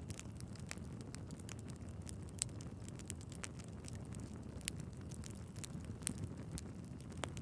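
Wood fire in a fireplace crackling, with dense irregular snaps and a few louder pops over a low, steady rumble of the flames.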